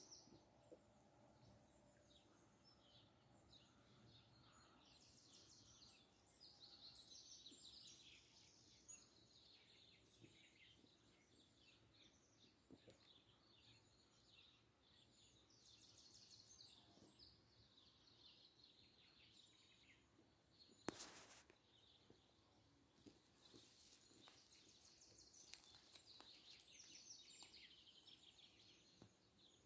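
Faint birdsong: many small birds chirping and trilling high and thin, on and off throughout. One sharp click stands out about two-thirds of the way through.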